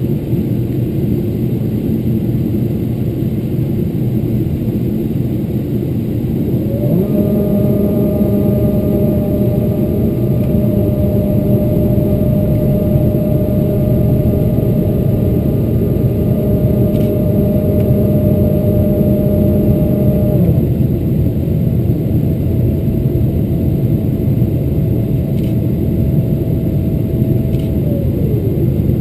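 Cabin noise of a Boeing 777-300ER on approach: a steady, loud roar of engines and airflow. About seven seconds in, a whine rises in pitch and holds steady. Around twenty seconds it drops to a single lower tone, which falls away near the end.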